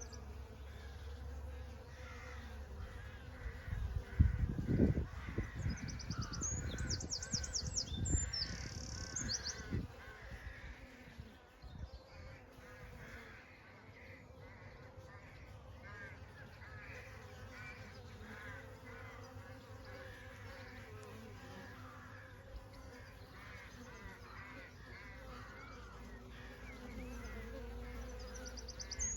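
Honey bees buzzing in a steady hum, with birds calling over it. About four to ten seconds in, a louder low rumbling stretch is heard, with a rapid high bird trill near its end.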